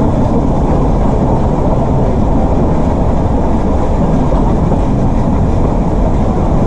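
Nilgiri Mountain Railway toy train running: a steady rumble of the carriage and its wheels on the rails, with a faint clickety-clack.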